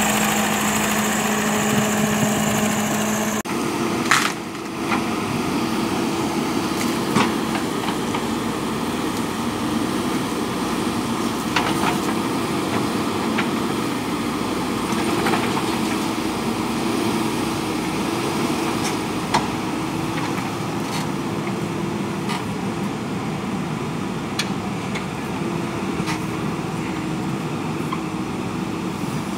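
Diesel engine of a JCB backhoe loader running steadily, with scattered short sharp knocks. The engine note changes abruptly about three and a half seconds in.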